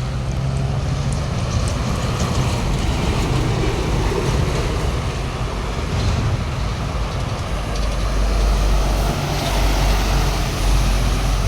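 Heavy road vehicle running past with a continuous engine and tyre rumble, deepening and getting heavier about eight seconds in.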